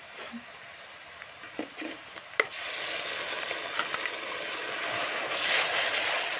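Onion paste frying in hot oil in a metal kadhai and being stirred with a steel spoon: a few soft knocks, a sharp click about two and a half seconds in, then a sizzling hiss that builds toward the end.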